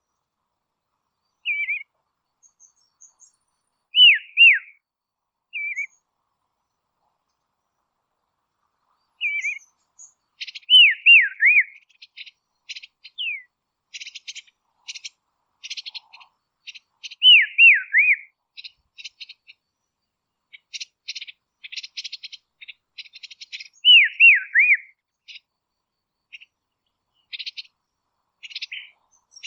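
Dusky robin calling: loud, clear, down-slurred whistles in twos and threes with pauses between groups, and from about ten seconds in a busy run of short high chattering notes between the whistles.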